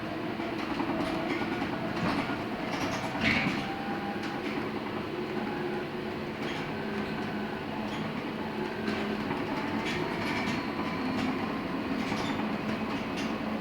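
Cabin noise of a LiAZ-6274 electric bus on the move: the electric traction motor's whine rising slowly in pitch over the first few seconds, over a steady rumble of tyres and road, with scattered rattles and knocks from the body and fittings.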